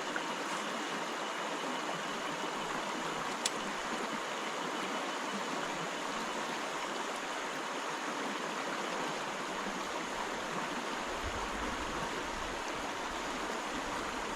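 River water rushing steadily, with a single sharp click about three and a half seconds in.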